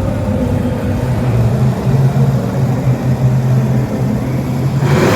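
A vehicle engine running loudly at a steady pitch. A loud rushing noise swells in near the end.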